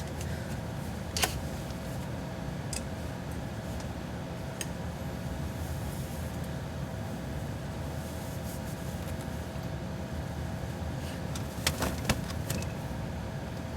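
Refrigerator running with a steady low hum and a faint constant tone. There is a sharp click about a second in and a few more clicks near the end.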